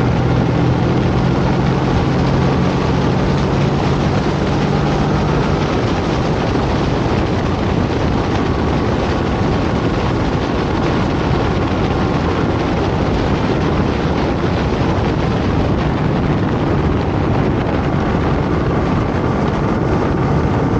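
Kawasaki Vulcan motorcycle engine running at cruising speed under heavy wind rush. A steady engine note is clear for the first five seconds or so, then mostly covered by the wind.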